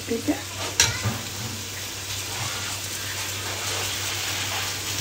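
Goat trotters sizzling steadily as they fry in a green masala paste in a pressure cooker, with a couple of sharp knocks about a second in.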